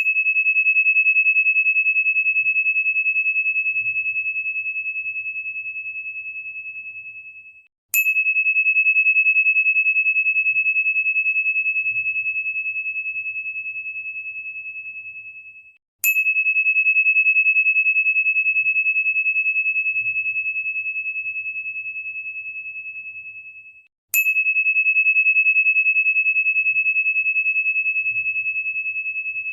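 A high, pure crystal tone, struck with a sharp click four times about eight seconds apart. Each strike rings as one steady pitch that fades slowly and is cut off just before the next strike.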